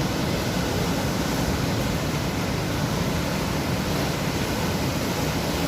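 Sea surf: a continuous, steady rush of waves breaking and washing on the shore.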